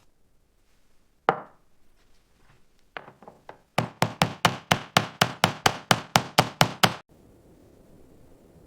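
Rapid chopping on a wooden board, about five even strokes a second for some three seconds, after a single sharp knock and a few lighter taps; it stops abruptly.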